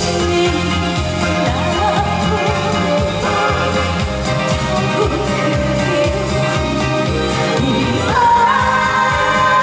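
Korean trot song performed live: a female singer's voice carries the melody over an accompaniment with a steady beat.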